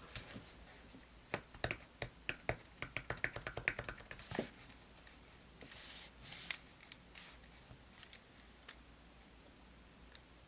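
Small clicks and taps from stationery being handled on a desk, with a quick run of about half a dozen a second in the first half, then a few soft paper rustles and scattered single clicks.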